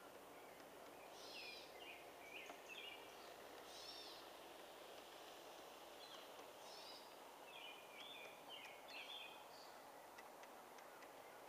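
A bird chirping in short repeated phrases over a faint steady rolling noise from a garden-scale model freight train running on metal wheels along the track.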